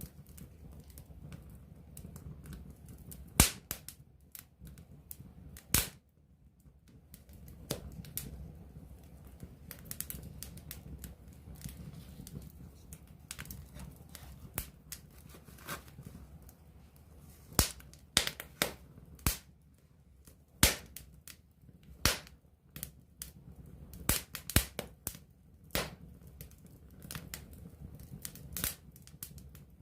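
Wood campfire crackling, with sharp irregular pops over a low steady rumble. The loudest pop comes about three seconds in, and the pops come more often in the second half.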